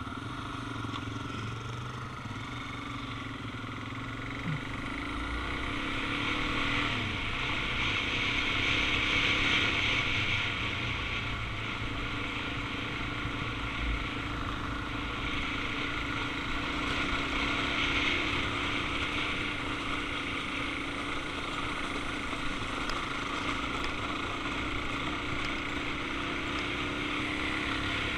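Suzuki DR-Z400 single-cylinder four-stroke engine running steadily while riding, mixed with wind and road noise, swelling a little twice.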